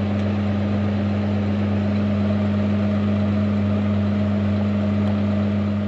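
International 5488 tractor's six-cylinder turbo diesel running steadily, an even engine note with no change in pitch.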